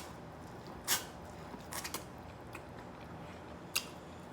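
Close-miked eating sounds: a few short, sharp mouth smacks and clicks while chewing seafood, the loudest about a second in and a quick cluster just under two seconds in.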